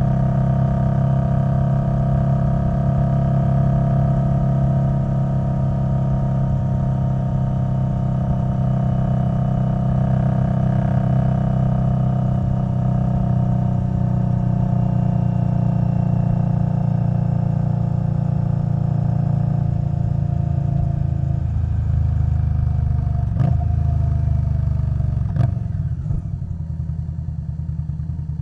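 Indian Scout Bobber Twenty's liquid-cooled V-twin running through Vance & Hines Twin Slash exhaust, with its pitch slowly falling as it rolls off. Two sharp clicks come near the end, then the engine settles into a quieter, lower, pulsing beat.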